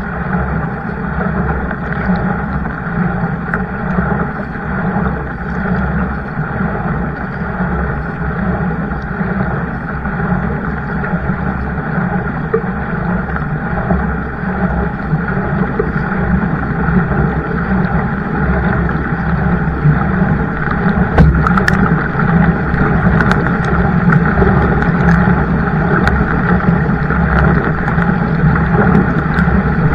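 Steady rushing noise of a kayak moving on the water, with a few sharp clicks or knocks about two-thirds of the way through.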